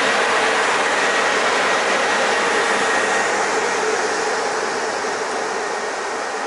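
Electric locomotive passing close by, its wheels running on the rails with a steady rushing noise and a faint whine. The noise fades slowly as it moves away.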